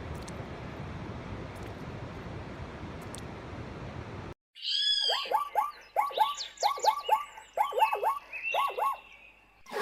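A steady rushing noise for about four seconds, then after a sudden cut and a short silence, a busy run of short repeated animal calls with higher chirps above them.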